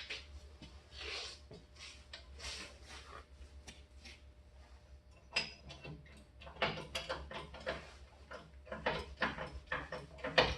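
A jack set between the truck frame and the leaf spring being worked: repeated metallic clicks and clanks of the pumping handle, coming faster and denser in the second half, over a low steady hum.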